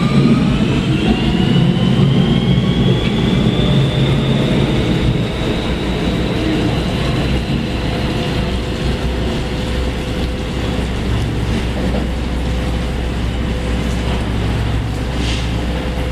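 New York City subway train accelerating out of a station: the electric traction motors whine, several tones climbing in pitch for the first few seconds and then holding steady, over the constant rumble of the cars on the rails.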